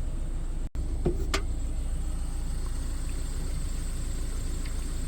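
Engine idling with a steady low rumble, broken briefly by a cut under a second in, with two short knocks soon after.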